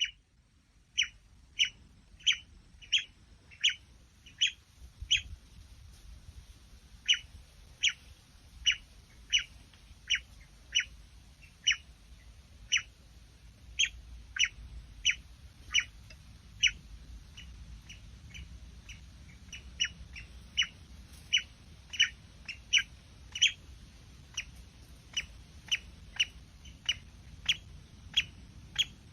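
A short, sharp bird call repeated over and over, about one and a half times a second, with brief pauses now and then, over a faint low rumble.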